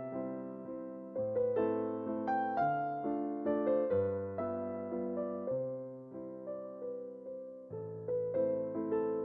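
Background music: a solo piano playing a steady tune of struck melody notes over repeated low chords.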